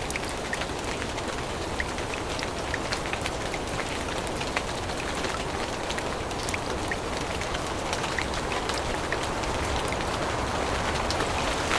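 Steady rain falling on forest foliage, with many separate drops pattering and ticking over a constant hiss.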